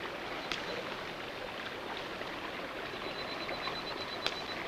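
Steady rushing of a rainforest stream, with a faint high-pitched pulsing tone throughout and two faint clicks.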